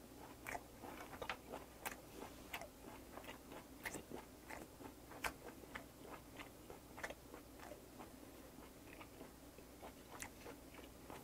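Faint close-miked mouth sounds of a man chewing soy-marinated sea hare (군소장): soft wet clicks and smacks, roughly two or three a second, thinning out near the end.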